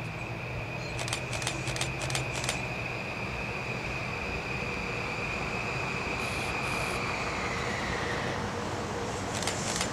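Metro-North M8 electric multiple-unit train approaching along the track, a steady rumble with a high whine that falls in pitch about eight seconds in. Sharp clicks come in a quick run about a second in and again near the end.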